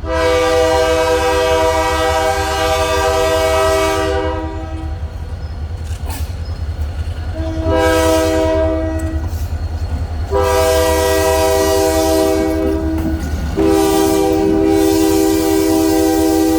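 Locomotive multi-note air horn sounding four long blasts: one of about four seconds, then after a pause a shorter one, then two more in close succession, the last still sounding at the end. A steady low rumble of the running diesel locomotive lies underneath.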